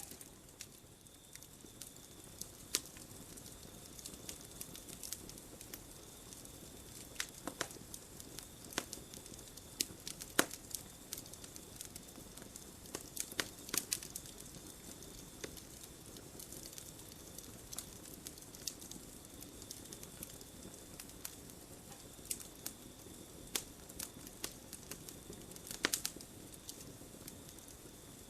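Campfire crackling: burning wood giving irregular sharp pops and snaps, a few louder ones among many small ones, over a soft steady hiss.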